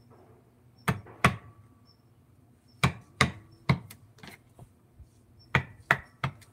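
Sharp wooden knocks in groups of two, three and three, each with a short ring: a mallet striking a carving chisel into wood.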